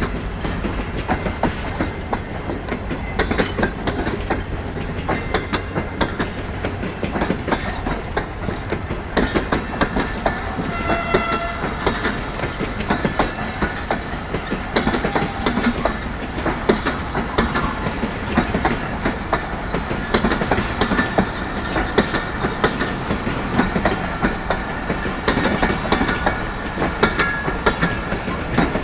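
Passenger train pulling out of a station, its coaches rolling past with wheels clattering over the rail joints in a continuous clickety-clack over a steady rumble.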